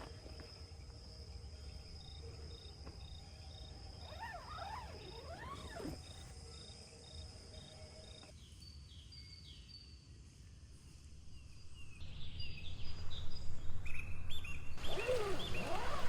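Forest ambience: a steady high insect trill with a pulsing line beneath it, and scattered bird calls. From about twelve seconds in, the calls grow louder and busier, with many short chirps.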